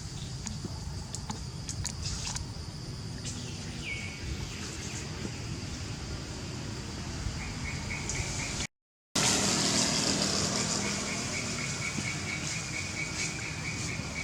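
Outdoor ambience of steady insect buzzing with short, repeated chirps, and scattered light clicks. The sound cuts out for a moment about nine seconds in.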